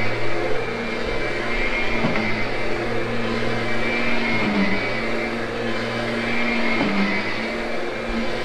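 Kirby upright vacuum cleaner running steadily as it grooms a freshly cleaned carpet, its motor hum dipping briefly in pitch about every two and a half seconds.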